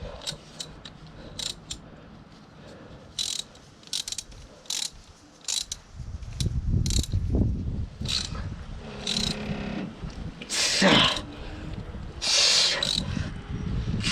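Metal hand tools working a chain breaker and riveting tool on a motorcycle drive-chain link: a series of short sharp metallic clicks, then longer scraping and grinding of metal on metal in the second half.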